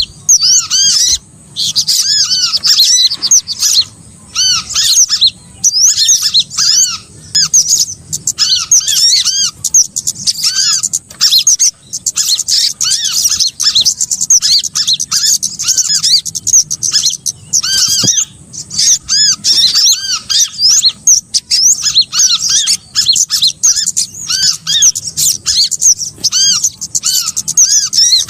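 Bird-trapping lure recording of small songbirds calling: a dense, unbroken stream of quick, sharp arched chirps, several a second, overlapping one another as if many birds call at once.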